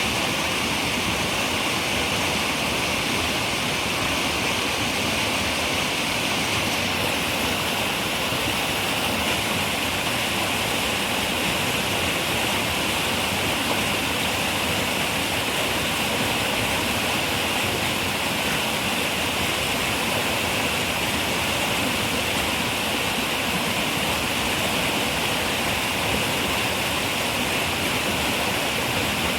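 River water rushing steadily, an even hiss of flowing water with a bright edge and no breaks.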